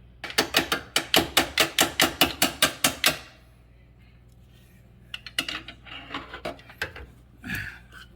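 A quick, even run of about fifteen sharp knocks, some six a second, from a tool being worked on the jammed dishwasher. It stops about three seconds in, and a few scattered knocks and clatter follow.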